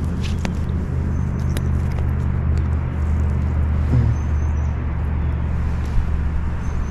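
Heavy wind rumbling steadily on the microphone, with a few faint clicks.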